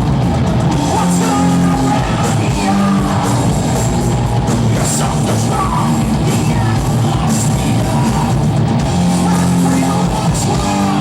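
Live rock band playing a loud, heavy song, with a singer's yelled vocals over the band.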